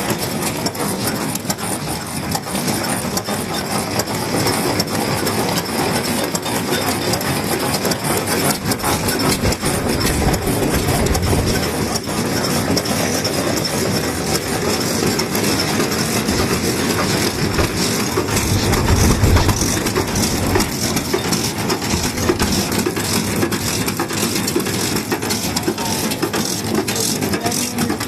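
Vintage Japanese stationary kerosene engine (石油発動機) running, a fast, even mechanical clatter of knocks, with a brief deeper low hum about two-thirds of the way in.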